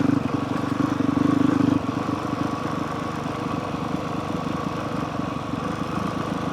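Honda CRF450R's single-cylinder four-stroke engine running at a low trail pace. It is a little louder for the first couple of seconds, then eases back to a steady lower level as the throttle is backed off.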